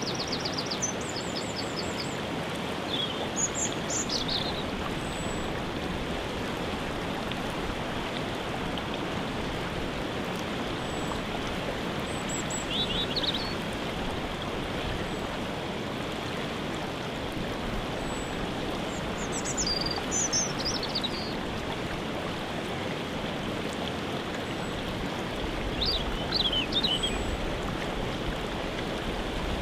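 Waterfall water rushing steadily, with songbirds chirping in short, high phrases every few seconds.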